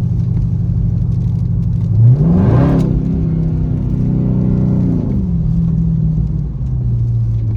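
Dodge Charger Scat Pack's 392 HEMI V8 running, then revving up sharply under throttle about two seconds in, holding the higher pitch, and settling back down in two steps.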